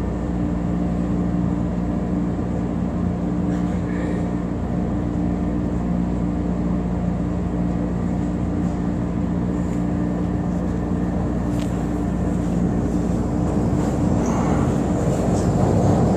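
Steady electrical hum and ventilation noise of a stationary electric rapid-transit train car waiting at the platform with its doors open. A rushing noise builds near the end.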